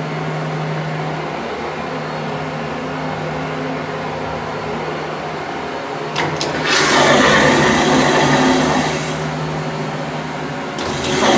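Steady low hum in a small, echoing public restroom. About six seconds in, a click is followed by a loud rushing noise that eases after a couple of seconds, then starts again after another click near the end.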